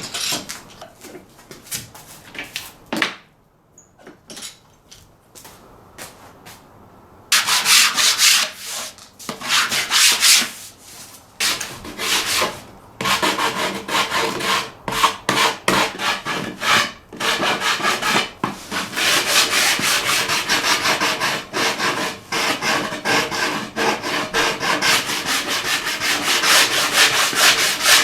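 Sandpaper rubbing back and forth in rapid strokes, after a few scattered knocks of handling for the first several seconds.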